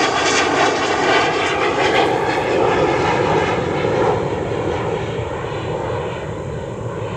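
Airplane's engines passing close by, loud, with a pitch that slowly falls and fades away over the last few seconds.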